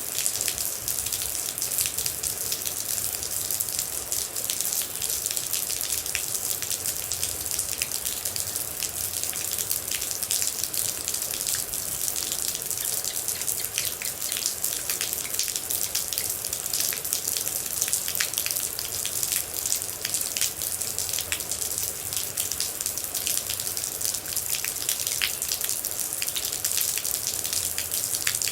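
Steady rain, a dense hiss of falling water with many separate sharp drop impacts scattered throughout.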